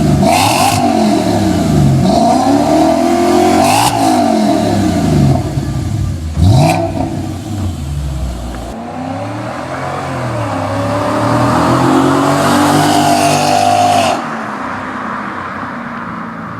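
Audi S4's 4.2-litre V8 being revved through a custom cat-less 2.5-inch exhaust with an X-pipe and resonators. It blips sharply up and down three times, then climbs more slowly over several seconds before dropping back to a quieter steady note.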